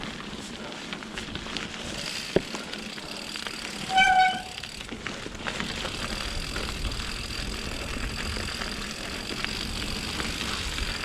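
Mountain bike on Pirelli Scorpion tyres rolling over a wet, rocky trail: a steady noise of tyres and riding, with scattered clicks and rattles. About four seconds in comes a single short, high-pitched squeal or toot, the loudest sound.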